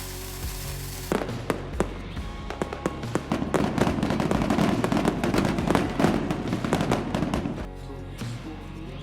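Fireworks crackling and popping in a dense, rapid series over background music, starting about a second in, busiest in the middle and thinning near the end.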